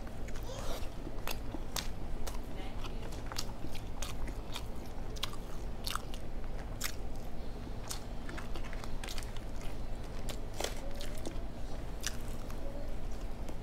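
Chewing fried flounder close to a clip-on microphone: wet mouth clicks and soft crunches at irregular intervals.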